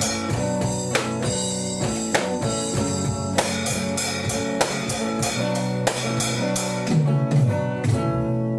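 A rock band with guitar and drum kit playing the instrumental close of a song, drums striking steadily under the chords. A low run slides downward near the end, then the drums stop and the last chord is left ringing.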